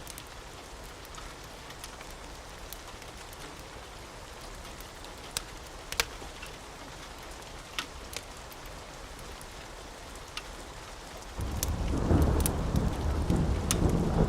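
Steady rain hissing, with a few sharp ticks and pops scattered through it. About eleven seconds in, a loud low rumble of thunder comes in suddenly and keeps rolling.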